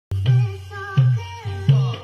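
Loud dance music played through a 'sound horeg' sound system, with deep bass hits about every 0.7 s under a melody.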